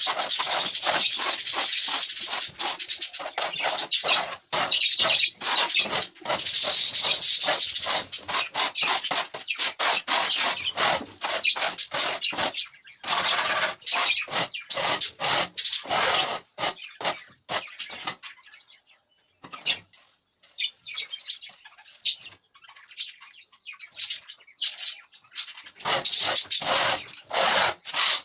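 Dry loofah gourd being rubbed and scraped by hand, giving quick, crackly scratching strokes. The strokes thin out to scattered scratches about two-thirds of the way through, then come thick again near the end.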